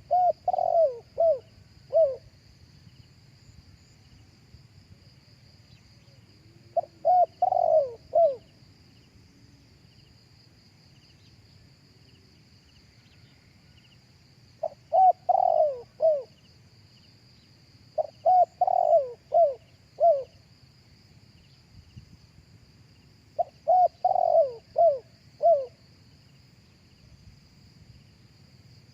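Spotted dove cooing: five phrases of three or four low coo notes, about 2 s each, spaced a few seconds apart. A steady high insect drone runs underneath.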